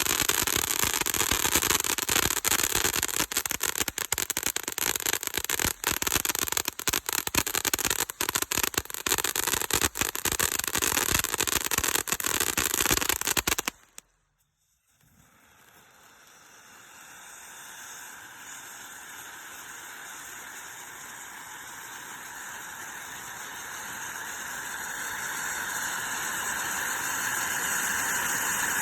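Firework fountain spraying titanium crackling stars: a dense, loud crackle that stops suddenly about halfway through. After a moment of near silence, a steady hiss starts and slowly grows louder.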